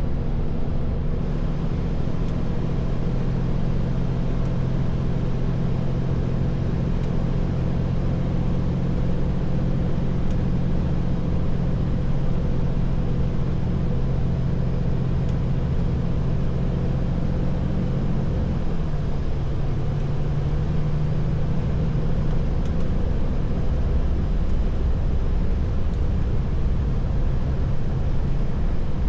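Heavy truck's diesel engine pulling steadily, heard from inside the cab with tyre and road noise. Its pitch shifts about 19 seconds in.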